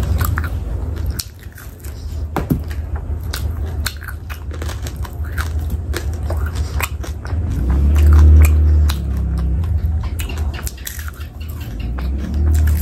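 Close-miked chewing of a mouthful of spicy fried chicken, with many wet clicks and smacks of the mouth. A dull low rumble swells about two-thirds of the way through.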